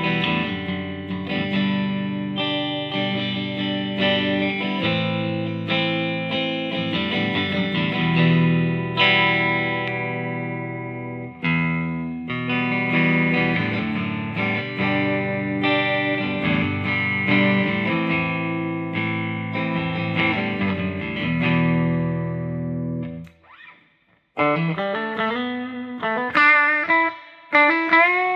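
Squier Jazzmaster electric guitar playing sustained chords through an amp. It stops briefly after about 23 seconds, then comes back with notes whose pitch bends up and down.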